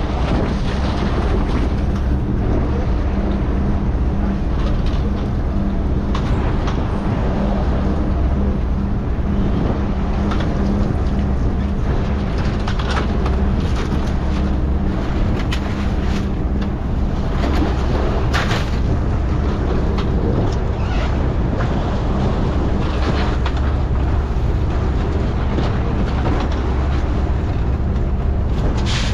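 Fishing boat's engine running steadily, with a few sharp knocks over it.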